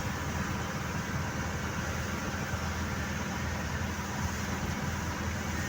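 Steady noise inside a moving car in heavy rain: the engine and tyres on the wet road, with rain on the car's body and glass.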